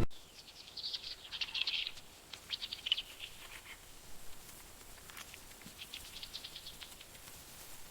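Faint wildlife ambience: several bursts of rapid, high chirping trills from small animals, each lasting a second or so, with short gaps between.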